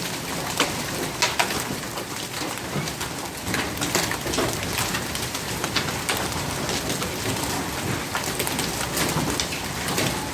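Hail falling with rain: a steady hiss of downpour dotted with many sharp, irregular ticks of hailstones striking surfaces.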